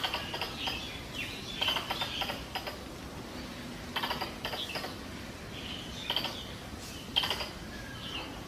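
Wild tree squirrels' mating-season call: short bursts of rapid clicking chatter, about five bursts separated by brief pauses.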